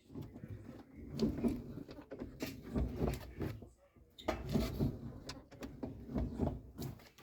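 A car door being swung back and forth repeatedly, its door check (limiter) arm and rollers working through their detents with short knocks and rubbing.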